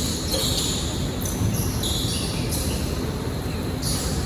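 Basketball game noise on a gym court: a ball bouncing amid a steady clatter of play.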